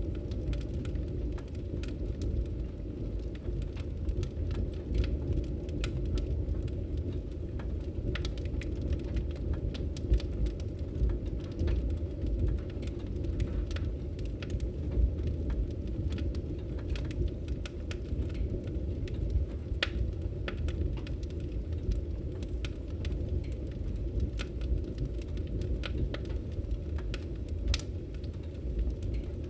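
Wood fire crackling in a fireplace: a steady low rumble of flames with irregular sharp pops and snaps throughout, a couple of louder pops about ten and fifteen seconds in.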